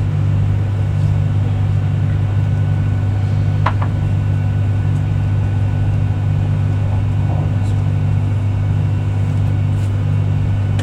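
Steady low hum and rumble inside the carriage of a Virgin Trains Class 390 Pendolino electric train on the move, with one short high blip about four seconds in.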